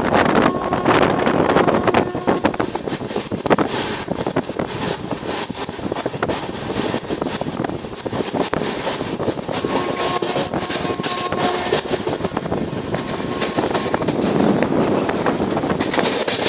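Indian Railways train running at speed, heard from on board: a steady rumble of wheels on the rails with repeated clattering knocks and rushing wind.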